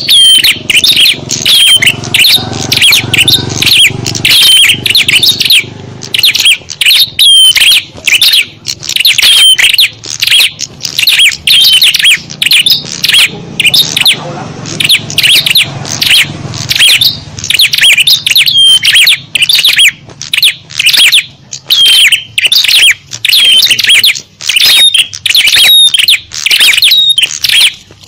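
A dense, loud chatter of small songbirds: rapid, sharp, high-pitched chirps and twitters following one another several times a second without a break. This is a lure recording of small birds' calls, made to draw small birds in. A fainter low hum sits underneath in places.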